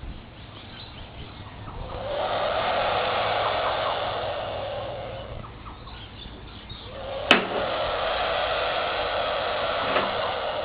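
Bush stone-curlew giving two long, loud hisses, each lasting about three seconds, with a sharp click just as the second one begins. It is a threat hiss from an agitated bird that sounds not happy.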